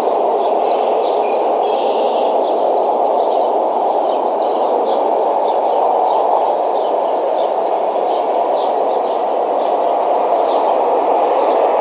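Short high bird chirps, repeating about once or twice a second, over a loud, steady rushing background noise.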